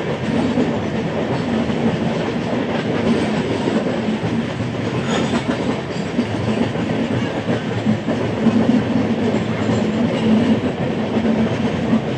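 Ahmedabad–Howrah Superfast Express passenger train running on the rails: a steady, loud noise of wheels and carriages on the track.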